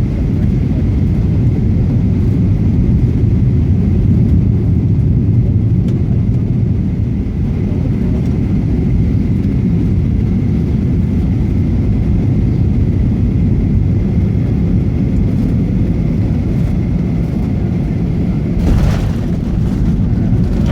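Inside an airliner cabin on a windy landing approach: a steady low rumble of engines and rushing air, then the hard thump of the wheels hitting the runway near the end.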